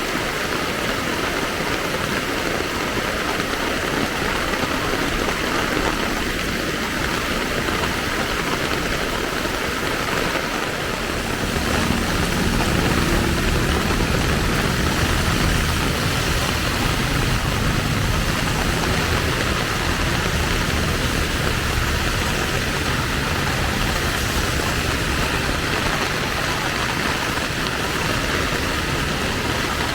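Steady hiss of falling rain with street traffic. From about twelve seconds in, a vehicle engine runs close by with a low, steady hum.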